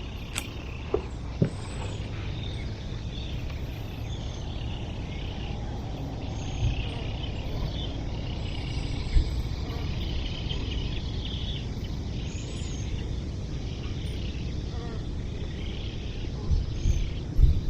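Outdoor ambience: a steady low rumble with scattered faint chirps, and a few sharp clicks near the start.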